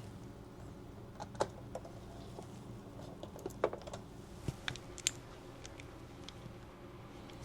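Light, irregular clicks and taps of small metal tools and pistol parts being handled on a workbench, with a few sharper clicks about a second and a half in, around three and a half to four seconds in, and about five seconds in.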